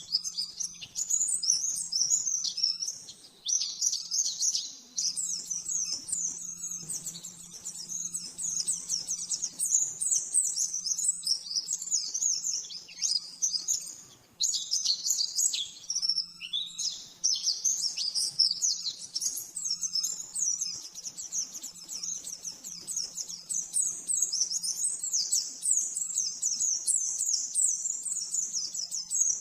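White-eye (pleci) singing a fast, unbroken run of high twittering chirps, the rapid 'nembak' song, broken only by a few short pauses. A faint steady low hum sits underneath.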